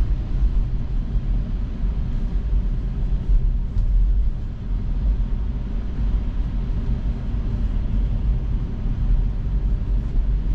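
Steady low rumble of tyre and road noise heard inside a Tesla's cabin while driving, with no engine sound.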